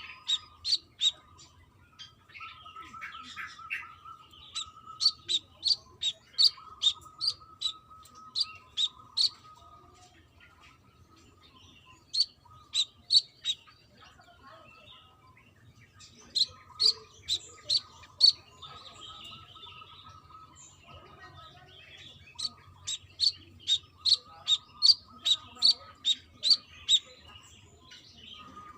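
Brown-throated sunbird calling: runs of sharp, high chirps, about three a second, each run several notes long with short pauses between.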